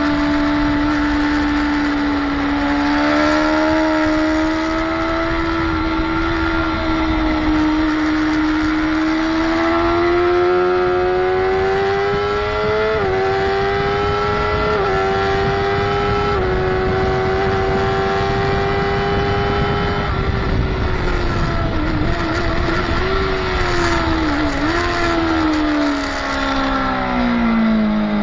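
Motorcycle engine under load on a race track, rising in pitch through the gears with three quick upshifts around the middle, then falling as the rider rolls off and shifts down with small blips, dropping further near the end. Wind rush on the bike-mounted microphone runs underneath.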